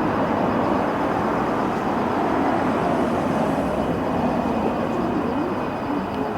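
Steady running noise of a train, an even rumble and rush with no distinct events.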